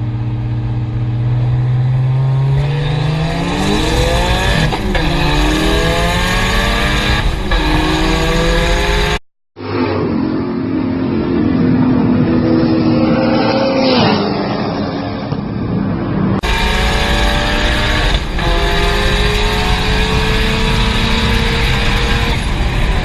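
Turbocharged Toyota Starlet race car engine accelerating hard through the gears. Its pitch climbs and drops sharply at each upshift, across three separate runs cut together.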